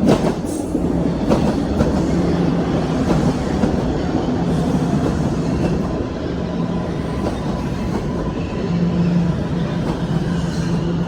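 TTC Line 1 subway train running past close by, a loud steady rumble of wheels on rail with a low hum, starting suddenly.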